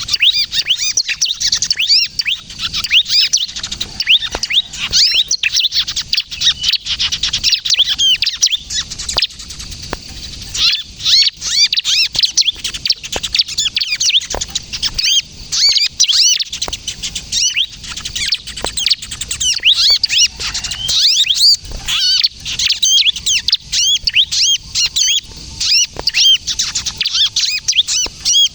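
Bar-winged prinia (ciblek) calling: a dense, fast run of high, sharp chirps and twitters, with brief lulls about a third and two-thirds of the way through.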